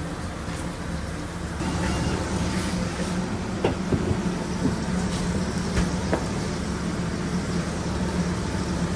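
Steady hum and hiss of food-truck kitchen machinery, getting louder about one and a half seconds in, with a few short sharp knocks.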